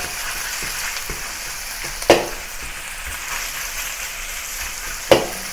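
Marinated beef strips sizzling in hot oil in a wok as a metal spatula spreads them. The spatula knocks sharply against the wok twice, about two seconds in and again near the end.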